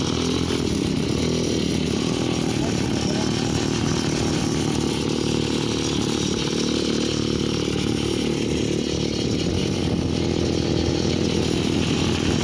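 Small engine of a homemade mini bike running steadily under way, its pitch rising and falling slightly.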